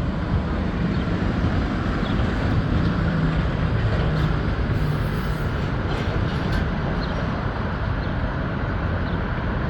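A steady, even mechanical rumble and hiss of heavy equipment or rail vehicles at a subway track work site, with a few faint high clicks.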